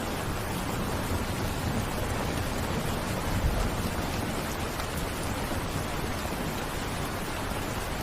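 Steady rain falling, an even hiss, with a brief low rumble swelling about three and a half seconds in.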